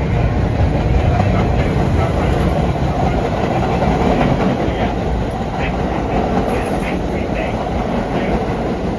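Vintage R1/9 "Arnine" subway car running along the track: a steady rumble of wheels on rail with scattered clicks.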